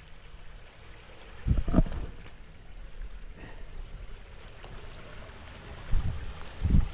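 Spring water running steadily, with a few low thumps about one and a half seconds in and again near the end.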